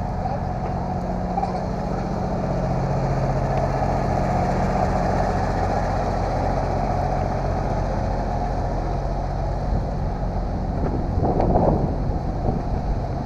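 A large engine idling steadily with a low hum that swells slightly a few seconds in, and a brief louder rough noise near the end.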